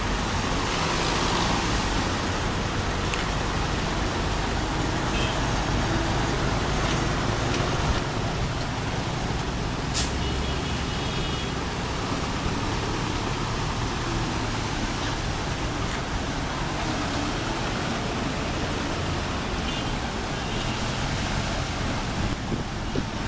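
Steady road traffic noise with running vehicle engines, and one short sharp click about ten seconds in.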